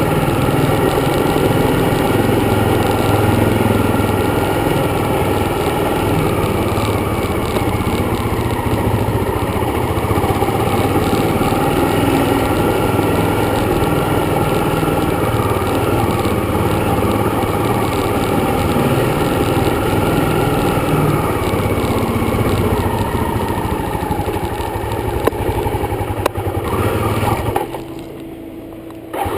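Dirt bike engine running steadily as the bike is ridden. Near the end the sound drops away sharply for about two seconds.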